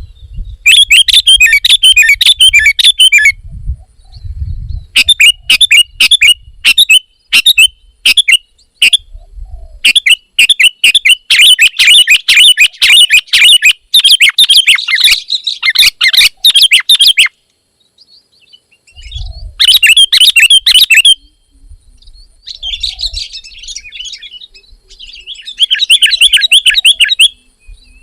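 Sooty-headed bulbul (kutilang) singing in phrases of fast, chattering notes, some of them several seconds long, with pauses of a second or two between them.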